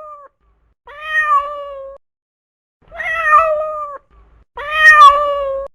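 Domestic cat meowing: three drawn-out meows of about a second each, the last the loudest, after the tail end of another at the start.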